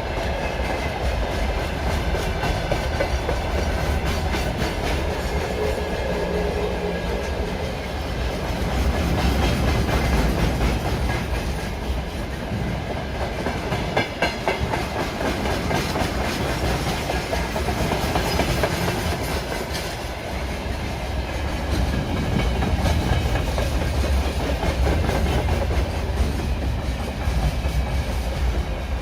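A train running past on the rails: a steady rumble with the clatter of its wheels over the rail joints throughout.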